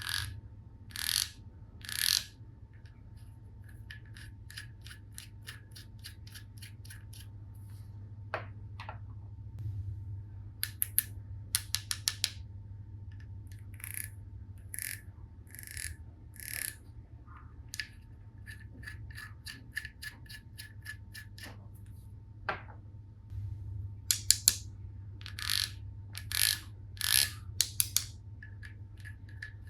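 Plastic toy tools being handled: scattered clicks and short runs of rapid clicking, with a busier stretch of louder clicks near the end.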